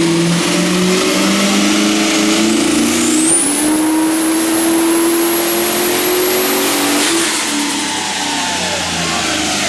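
Turbocharged 6.0-litre LS2 V8 of an HQ Holden one-tonner at full throttle on a chassis dyno, revs climbing under load. About three seconds in, the rear-mounted turbo's whine rises sharply to a high, steady whistle. Seven seconds in, the whistle cuts off and the engine note drops away as the pull ends.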